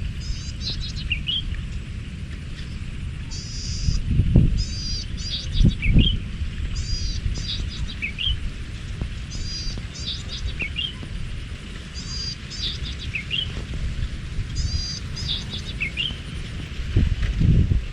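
Wild birds calling. One repeats a short rising note every couple of seconds, while others give bursts of quick, high chirps. Under the birds, wind buffets the microphone with a low rumble, gusting harder about 4 and 6 seconds in and again near the end.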